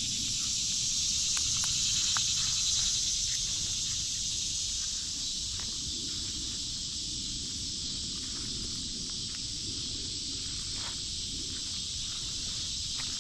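Steady high-pitched drone of an insect chorus, a little louder in the first few seconds, with a few faint clicks and rustles.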